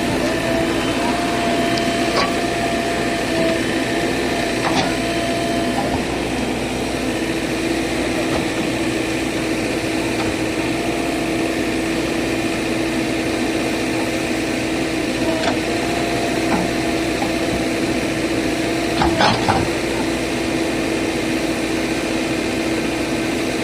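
A JCB earth-moving machine's engine running steadily with a constant hum, with a few short knocks along the way, the loudest about 19 seconds in.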